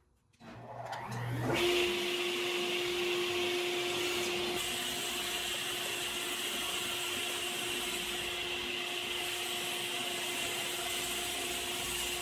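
A high-speed electric motor in a woodworking shop switched on: it whines up to speed over about a second, then runs loudly and steadily at one pitch until near the end.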